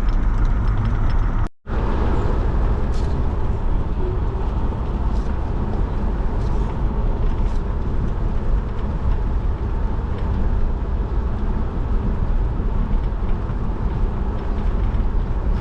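Steady road and engine noise of a car being driven, heard from inside the cabin. There is a brief total cut-out about a second and a half in.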